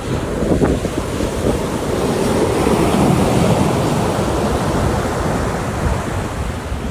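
Ocean surf washing onto a beach: one wave swells to its loudest around the middle and eases off toward the end.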